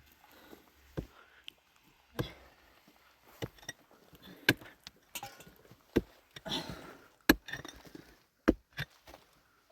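A series of about ten sharp knocks or cracks at irregular intervals, roughly one a second, with some brief rustling between them.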